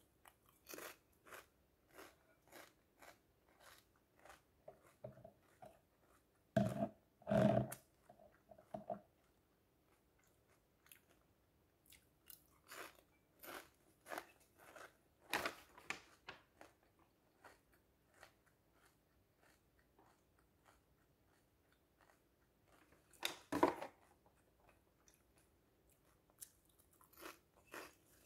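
Close-up crunching and chewing of a crisp pumpkin-seed seaweed snack, in irregular bites with a few louder crunches and a short lull about two-thirds of the way through.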